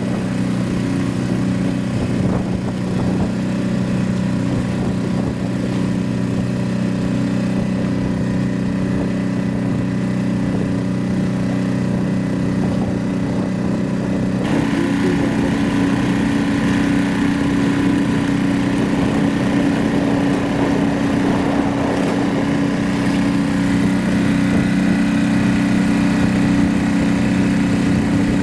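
Small boat engine, most likely the trimaran's outboard motor, running steadily at a constant speed. Its tone shifts slightly about halfway through.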